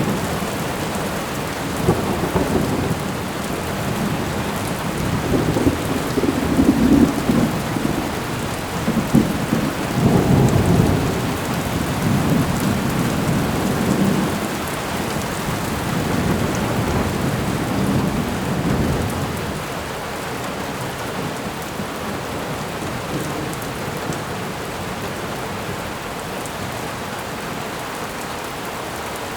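Thunderstorm ambience: steady heavy rain with rolling thunder that rumbles in several swells through the first two-thirds, then dies away, leaving only the rain.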